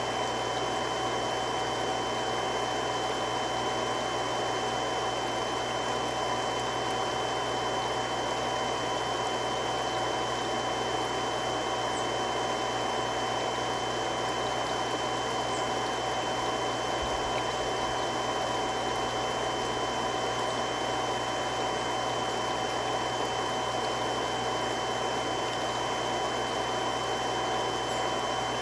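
Three-stage irrigation water pump running steadily: an even rush of water and motor noise with a few fixed tones held throughout.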